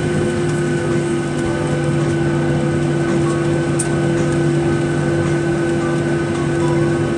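Boeing 737-800's CFM56-7B jet engines running steadily, heard from inside the passenger cabin: a constant hum of several steady tones over a hiss.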